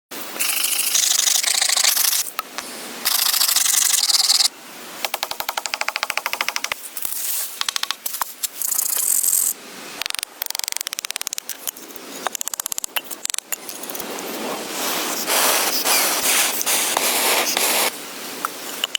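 Scraping and rubbing in loud blocks that stop and start abruptly, with stretches of fast, even clicking in between.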